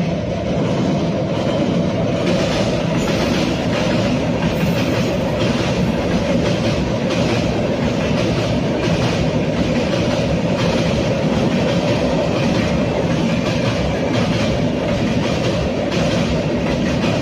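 Indian Railways train running on the track: a steady, loud rumble and rattle of wheels on rail, with faint clacks here and there.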